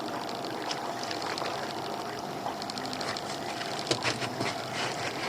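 Small boat's engine running steadily at low speed with a constant hum and a fast rattling tick, water splashing at the hull, and a few sharp knocks about four seconds in.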